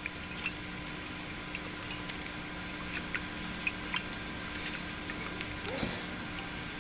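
Small splashes and drips of water as a pet bird bathes and flicks about in a shallow dish of water, over a steady low hum.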